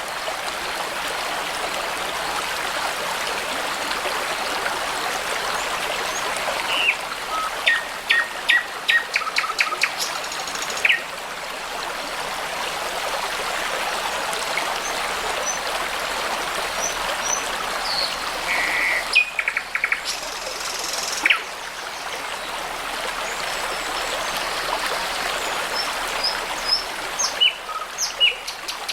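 A babbling brook runs steadily, with songbirds calling over it. There are runs of quick repeated chirps and short whistles about a quarter of the way in, more about two-thirds of the way through, and a few near the end.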